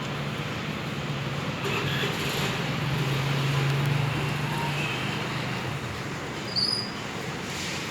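Road traffic: a motor vehicle's engine hum and road noise swelling to a peak about halfway through and then fading as it passes. A short high chirp comes near the end.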